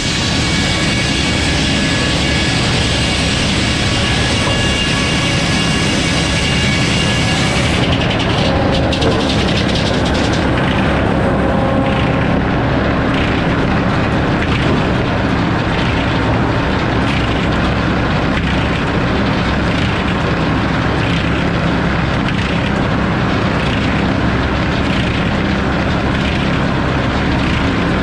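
Sawmill running, a steady engine drone with the noise of the saw. The high hiss drops away about eight seconds in, leaving the lower machine sound, with a faint regular pulse after that.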